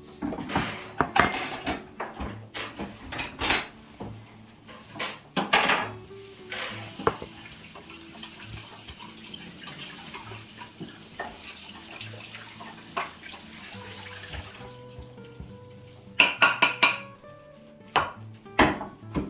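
Dishes, pots and cutlery clattering and clinking in kitchen work: a quick run of knocks at first, a steady hiss for several seconds in the middle, then more clinks near the end.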